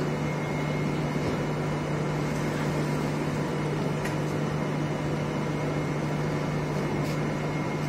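Steady hum of a stationary EN57AKM electric multiple unit, its ventilation and auxiliary equipment running: one constant low tone under an even hiss.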